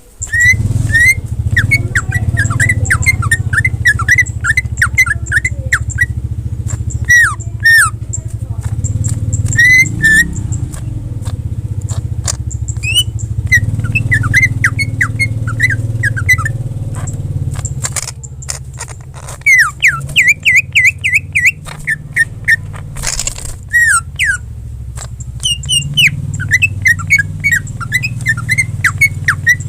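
Cucak ijo (green leafbird) singing in rapid runs of short, sharply bending whistled notes, with brief pauses between runs. A steady low motor rumble runs underneath.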